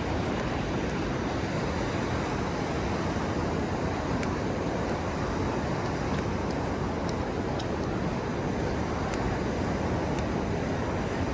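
Steady roar of ocean surf and wind on the microphone, with a few faint high clicks scattered through it.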